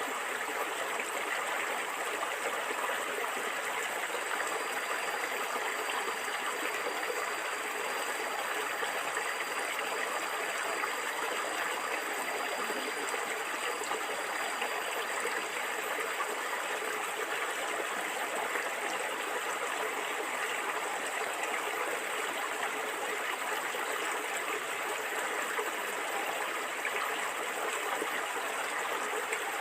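Stream water flowing and gurgling over rocks, a steady, even rush.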